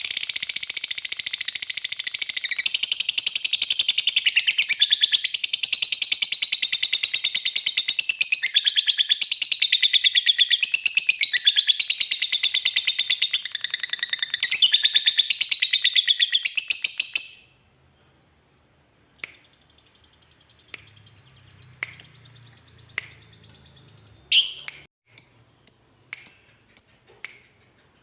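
Lovebird giving its long, rapid, chattering 'ngekek' trill, a fast unbroken run of high, shrill notes lasting about seventeen seconds before it stops abruptly. After it come only scattered short, sharp single chirps.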